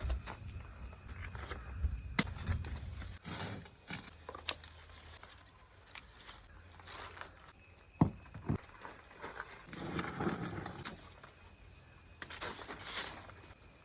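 Rustling with scattered sharp clicks and knocks, as of hands-on garden clean-up work; two sharp knocks come close together about eight seconds in.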